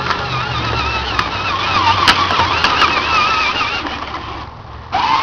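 Motor of a child's ride-on John Deere tractor running with a wavering whine. There are a few light clicks in the middle. The whine stops for about half a second near the end, then starts up again.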